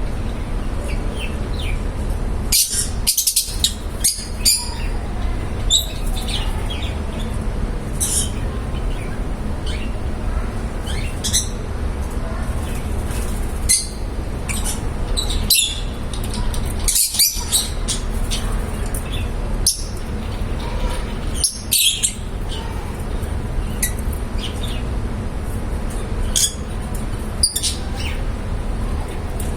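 Lovebirds chirping in short, sharp calls scattered irregularly, some coming in quick clusters, over a steady low background hum.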